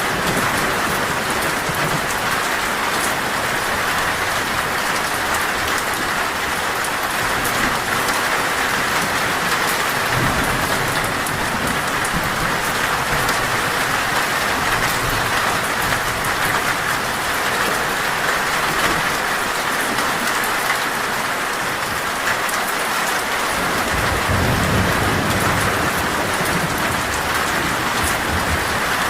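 Torrential rain drumming steadily on a metal roof, with low rolls of thunder about ten seconds in and again near the end.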